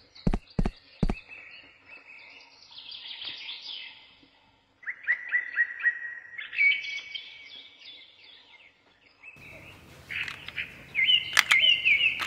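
Small birds chirping and calling in quick repeated phrases. There are four sharp knocks in the first second, a low steady hiss joins near the end, and there is one sharp click shortly before the end.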